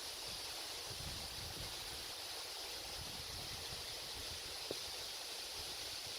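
A steady outdoor hiss with no pitch to it, with one faint click about three-quarters of the way through.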